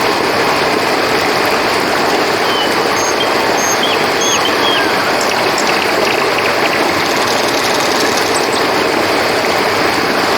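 River water flowing steadily, with a few faint, short, high chirps scattered through it.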